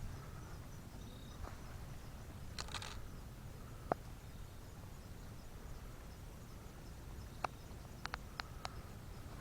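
Quiet outdoor background with a faint, high, steady insect trill, broken by a short hiss about three seconds in and several sharp clicks later on.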